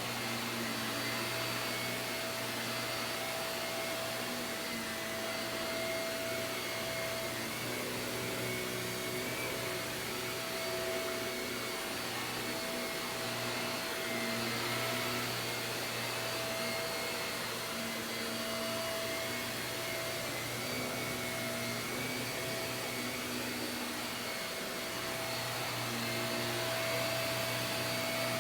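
Shark vacuum cleaner running steadily as it is pushed over carpet, a whine at several pitches holding above the motor noise and wavering slightly.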